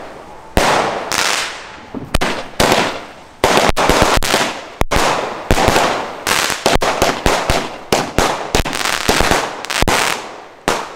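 Fireworks going off in a rapid, irregular string of loud bangs, about two a second, each with a short crackling tail.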